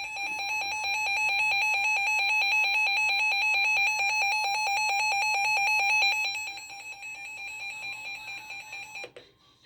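Weather radio alert tone: a rapidly pulsing beep at one steady pitch, announcing a severe thunderstorm warning broadcast. It is loud for about six seconds, then fainter, and stops about nine seconds in.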